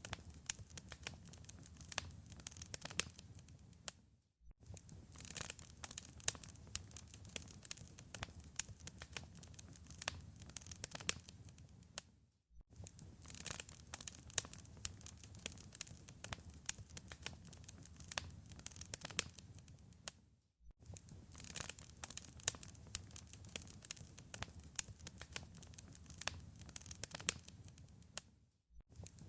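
Wood fire crackling in a fireplace: a dense stream of sharp pops and snaps over a low rumble of flame. The sound dips away for a moment about every eight seconds, three times.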